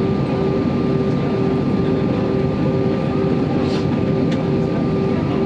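Airbus A320 engines running steadily, heard inside the passenger cabin: a loud even hum with a thin high whine and a lower tone that pulses on and off a few times a second.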